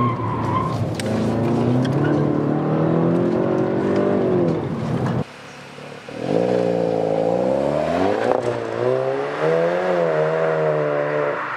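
Volkswagen Golf 7 GTI Performance's turbocharged 2.0-litre four-cylinder engine accelerating hard, heard from inside the cabin, its note rising steadily. After a sudden cut the car idles for a moment, then pulls away under full throttle, the engine note climbing and dropping back at two upshifts, with a sharp crack at the first shift.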